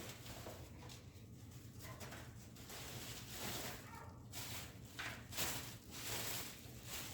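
Irregular rustling and handling noises, a few louder scrapes near the end, as things are moved around in a shop, over a low steady hum.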